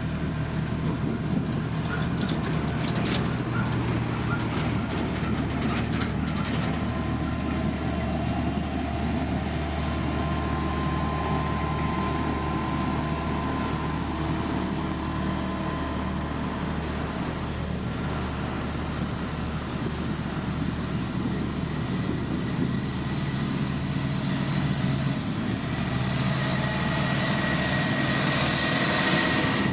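Diesel engine of heavy road-construction machinery running steadily, with some clicks and rattles a few seconds in.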